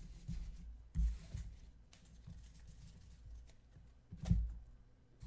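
Trading cards and packs being handled on a table: faint rustling with two soft knocks, one about a second in and a louder one just past four seconds.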